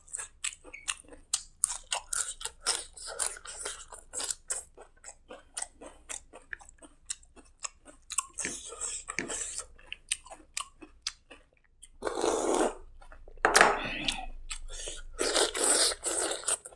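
Close-miked chewing of rice eaten by hand, with many quick wet mouth clicks and smacks. Near the end come a few louder, longer stretches of crunching.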